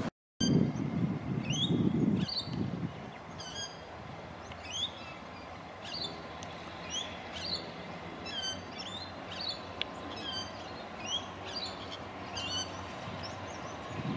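A bird chirping repeatedly, short downward-sweeping calls about one or two a second. Under the calls is a low rumble for the first couple of seconds, then a faint steady low hum from the approaching freight train's diesel locomotives.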